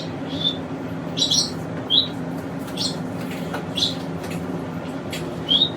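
Pet birds chirping: short, high chirps every half second to a second, over a steady low hum.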